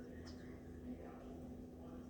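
Quiet room tone with a steady low hum, and a couple of faint, short, high chirps from small blackbirds outside.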